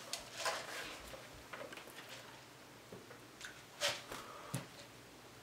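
Quiet chewing and mouth smacks from eating barbecued pork ribs, with a few sharper wet clicks, the loudest about four seconds in.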